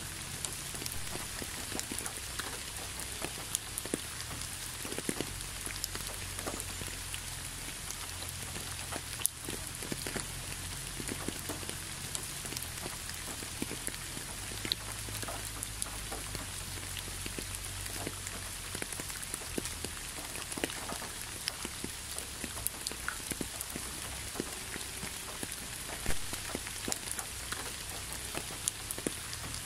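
Gentle rain falling on a road covered with wet fallen leaves: a steady even hiss with many separate drops ticking close by.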